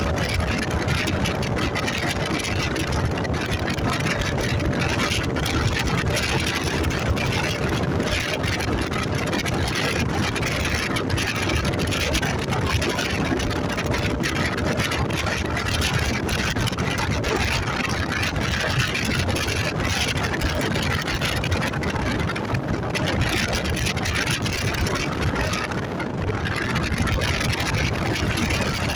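Motorcycle engine running steadily under a dense, even rushing noise, with no marked changes.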